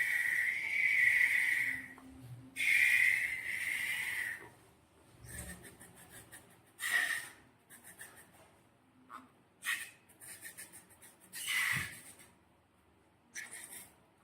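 Squeaky hissing bursts of air, two long ones and then several shorter ones, with short crackling squelches in between.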